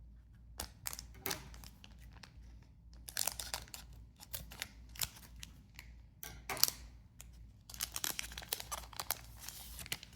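Trading-card booster pack wrapper being torn open and crinkled, in several bursts of rustling and tearing, with cards being handled.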